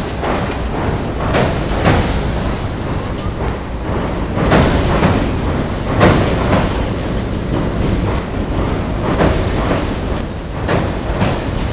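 A Tobu Railway electric train crossing a steel truss railway bridge: a steady rumble of the cars on the bridge, with irregular sharp clacks as the wheels pass over rail joints.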